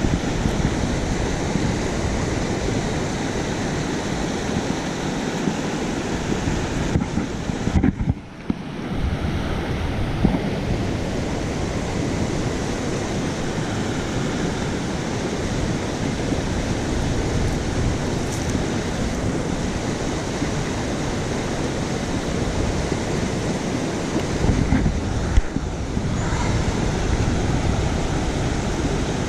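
A creek rushing loudly and steadily. The sound briefly drops away for about a second around eight seconds in.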